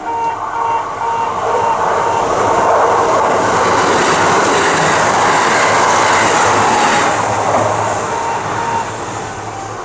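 A Kintetsu train passing over a level crossing: its running noise swells, peaks in the middle and fades. Under it the crossing's electronic warning bell keeps ringing in fast, even pulses, stopping near the end.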